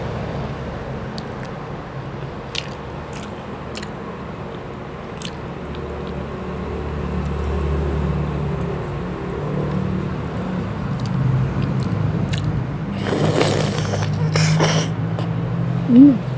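Close-up eating sounds of chicken adobo and rice eaten by hand: chewing and biting with scattered sharp mouth clicks, and two louder hissing bursts near the end. A short voiced hum rising and falling in pitch comes just before the end and is the loudest sound.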